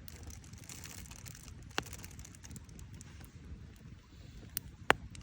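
Wood campfire burning: a steady low rustle under scattered small crackles, with a sharp pop about two seconds in and a louder one near the end.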